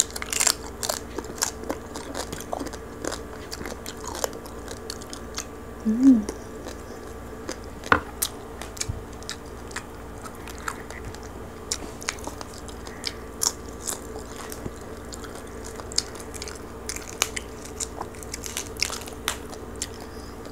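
Close-up chewing and crunching of crispy roast pig skin (lechon), with many short, sharp crackling bites spread throughout. There is a brief hummed sound of enjoyment about six seconds in.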